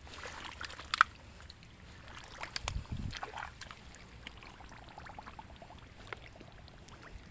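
Water sloshing and pouring as a pond is pumped down, with scattered sharp clicks and splashes and a steady low drone underneath; a single low thud comes about three seconds in.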